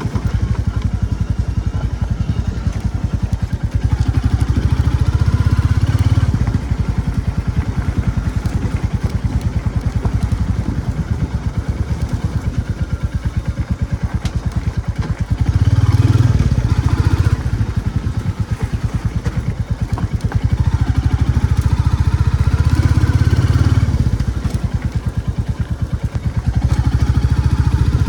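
Royal Enfield Classic 350's single-cylinder engine running under way with a steady beat of exhaust pulses, growing louder several times as the throttle opens.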